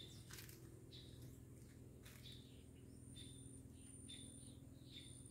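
A bird giving faint, short chirps with a quick downward slur, repeated about once a second.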